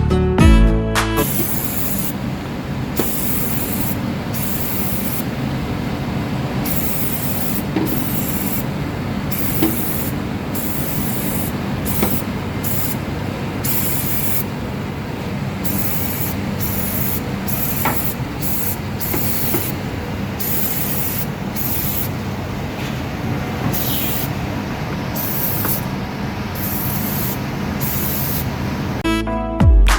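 Aerosol can of Armor All Tire Foam spraying in many short, irregular bursts of hiss, over a steady low background rumble.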